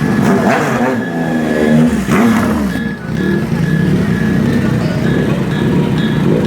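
Motorcycle engines revving twice in the first couple of seconds, then running steadily. A short high pip repeats a few times a second over the engines from about three seconds in.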